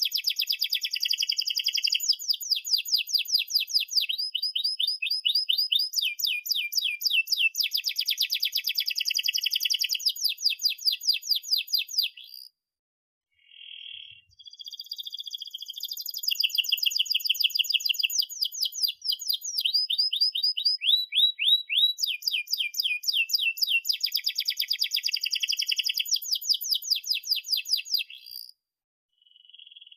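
Domestic canary singing a long song of fast repeated trills and rolls, high-pitched, breaking off briefly twice, a little before halfway and near the end.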